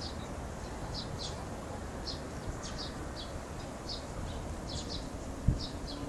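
Small birds chirping in short, high notes, repeated irregularly a few times a second, over a steady low background noise. A brief low thump sounds once, about five and a half seconds in.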